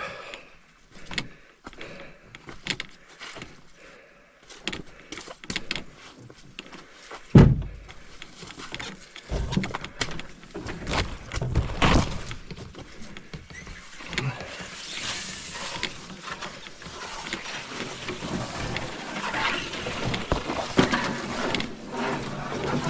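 Footsteps through mud on a portage trail: irregular squelches, scuffs and knocks, with one heavy thump about seven seconds in, and denser rustling in the second half.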